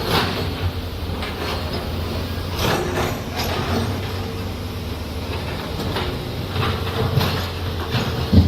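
Heavy excavator's diesel engine running steadily, with sharp metallic clanks and knocks from the steel tracks and bucket at several points, the loudest near the end.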